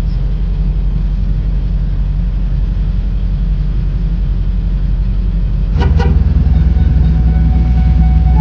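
Steady low rumble of a car driving. About six seconds in there is a single knock, after which the rumble is louder.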